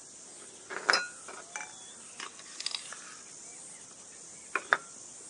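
Hard plastic parts of a MiniPresso GR hand espresso maker being handled: a scattering of short clicks, knocks and light scrapes, the loudest about a second in and a sharp pair near the end.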